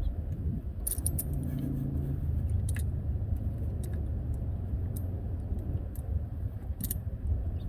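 Scattered light metallic clinks of a wrench on a bolt as the fuel pump's mounting bolt is turned out of the engine block, with a few louder clinks about a second in, near three seconds and near the end, over a steady low rumble.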